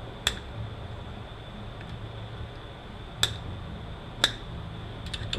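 Three sharp clicks of metal transmission parts being handled during teardown, the first just after the start and the others about three and four seconds in, with a few faint ticks near the end, over a steady low hum.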